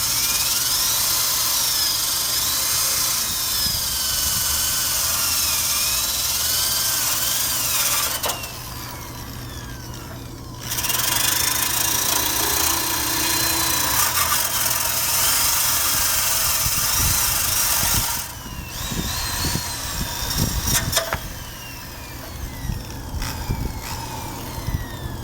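Power drill with a wire brush scouring the underside of a 1965 Honda Cub, its whine wavering as it bites into the metal. It runs in two long spells, about eight seconds each with a short pause between, then gives way to lighter knocks and scraping near the end.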